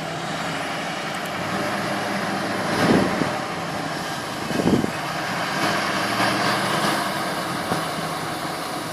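Petrol engine of a GAZ-3308 truck running steadily at idle. Two short low buffets are heard about three seconds in and again just before five seconds.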